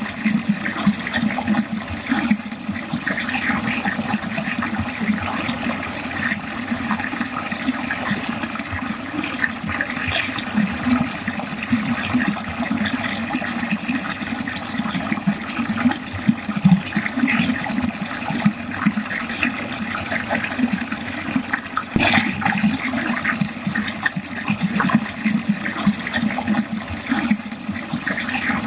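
Water running steadily down a drain, a continuous gurgling, splashing flow with many small flickers, and one brief sharp click about 22 seconds in.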